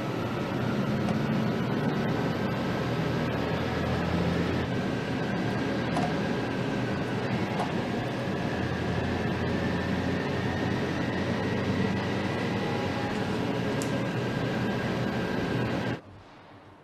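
Steady mechanical noise: a continuous low hum and hiss with a few faint high whining tones, cutting off abruptly near the end.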